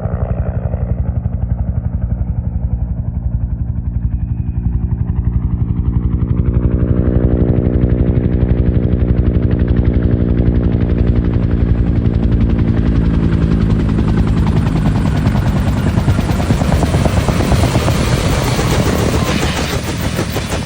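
Army helicopter's rotor chopping steadily and loudly, with a rushing hiss that grows brighter and fuller from about the middle on, as if the helicopter is drawing closer.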